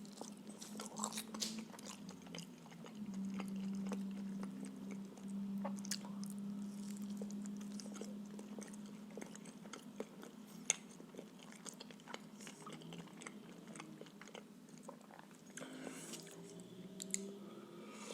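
Close-miked chewing and wet mouth sounds of someone eating filled blini, with small clicks throughout. A steady low hum runs under the first half and fades out about ten seconds in.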